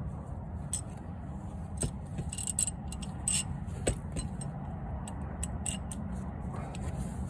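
Irregular sharp metallic clicks and clinks from a socket wrench tightening the oil drain plug of a Subaru WRX. A steady low hum runs underneath.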